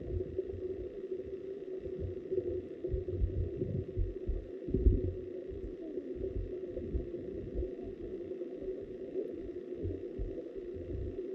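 River water heard through a submerged camera: a muffled low rumble with irregular soft thumps and a steady low hum, everything above the low range dulled by the water and housing.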